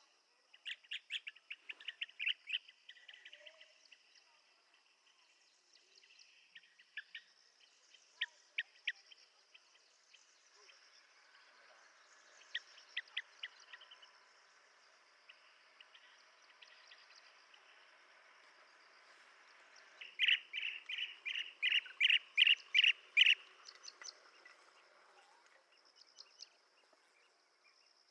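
Blue-tailed bee-eaters calling: short, clipped notes given in quick series of several at a time, the loudest a run of about eight notes roughly two-thirds of the way in. A steady high-pitched drone runs underneath.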